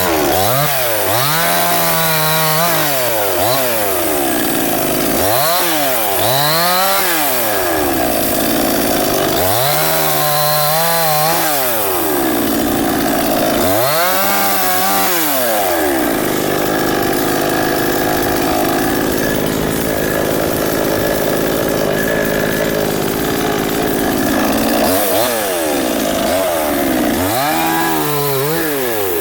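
Gasoline two-stroke Salemmaster chainsaw revving up and falling back again and again, with a longer stretch held at high speed in the middle.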